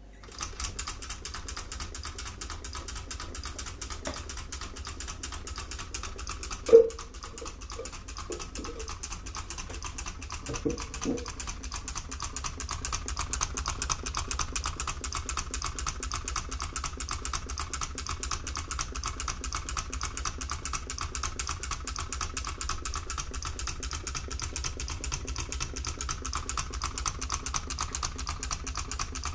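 Homemade Stirling engine running, its moving parts making a fast, steady clicking. A few short knocks break in about 7 and 11 seconds in, the first the loudest.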